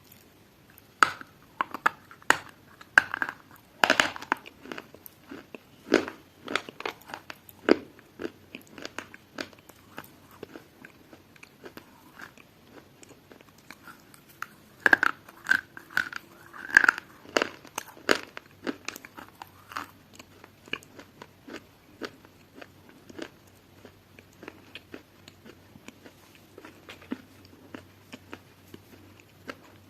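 A person biting into and chewing crunchy food, with loud crunches bunched in the first few seconds and again about halfway, and softer irregular chewing between.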